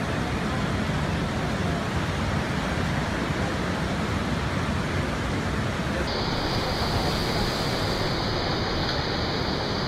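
Steady rushing of ocean surf breaking on the reef. About six seconds in the sound changes abruptly and a steady high hiss joins it.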